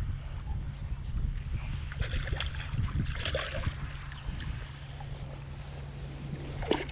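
Strong wind buffeting the microphone as a steady low rumble, with water sloshing and splashing and scattered small knocks. Two sharper knocks come at the very end.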